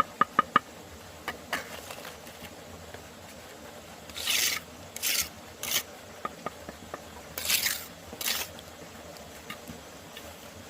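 Masonry work: four quick sharp taps with a slight ring near the start, then about five short scraping strokes of a trowel working mortar.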